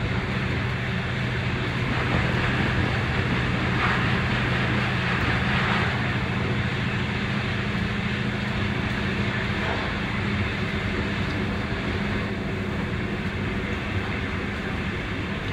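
Electric Intercity train running at speed, heard from the driver's cab: steady rolling and rail noise over a constant low hum. A louder hiss swells about two seconds in and lasts a few seconds.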